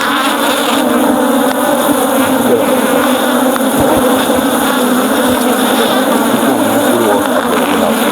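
Loud, steady buzzing of a very active honeybee colony in an open hive.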